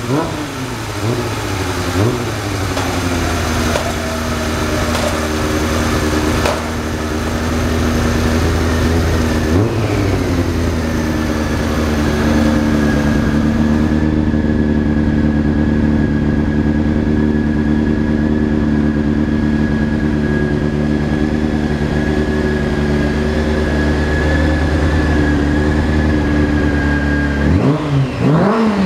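A Honda CBR600F4's inline-four engine running in gear with the rear wheel spinning, held at steady revs for most of the time, with short rev blips near the start, about ten seconds in, and at the end. A thin steady high whine runs alongside the engine.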